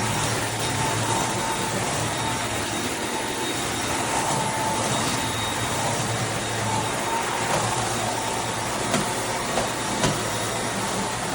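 Eureka RapidClean Pro (NEC280TL) cordless stick vacuum running steadily on a hard floor, a steady whine over its airflow noise, with a few light knocks near the end.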